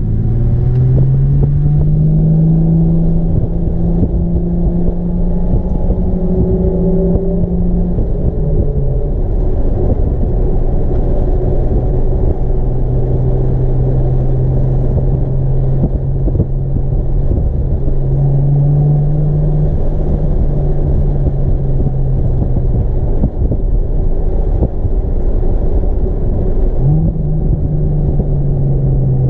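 Nissan 370Z's 3.7-litre V6 engine heard from inside the cabin, driven hard on track, with road and tyre rumble underneath. The engine note climbs and holds, drops sharply about eight seconds in, rises and falls again around eighteen to twenty-one seconds, and jumps up again near the end as the driver works the manual gearbox.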